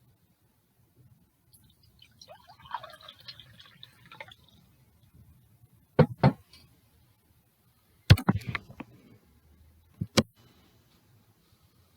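Water poured briefly into a glass coffee cup, followed by several sharp knocks of glassware being handled and set down: two near the middle, a cluster a little later, and two near the end.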